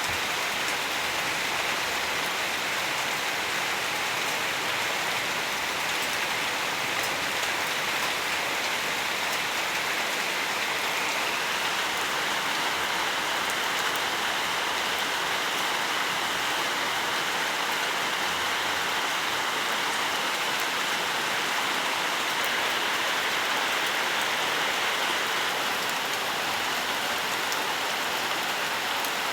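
Steady rain falling, an even hiss with faint pattering of drops.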